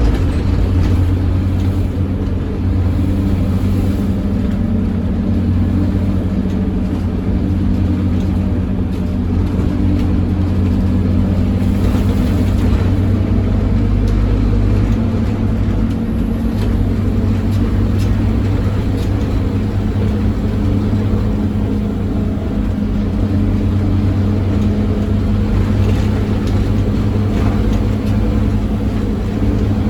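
Scania OmniCity double-decker bus's diesel engine being driven hard at speed, a loud steady low drone that shifts slightly in pitch now and then.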